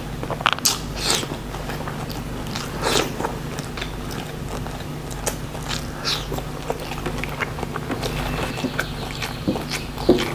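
Close-miked eating: a person biting and chewing shrimp pesmol and raw vegetables, with many short crisp crunches and wet clicks, the loudest ones about half a second to a second in and again around three seconds. A steady low hum runs underneath.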